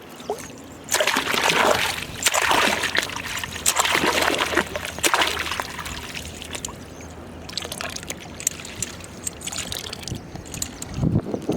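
Water splashing and sloshing in irregular surges, loudest in the first half.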